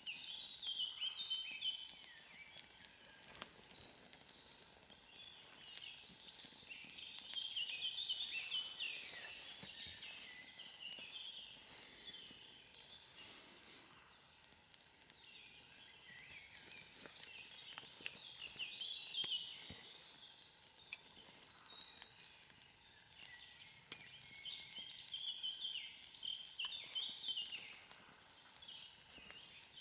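Several wild birds singing and calling in the woods: busy short chirps and quick falling whistles, on and off throughout. Scattered drips of rainwater patter underneath.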